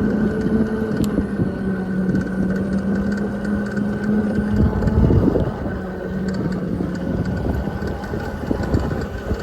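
Electric dual-sport motorcycle riding slowly in eco mode: a steady motor whine at an even pitch over wind and rumble from the tyres on rough ground, with a few uneven thumps.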